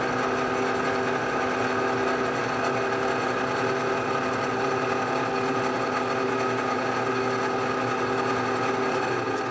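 Bridgeport vertical milling machine running steadily, its motor and spindle giving a constant hum of several steady tones over a dense mechanical noise. It starts abruptly and holds level.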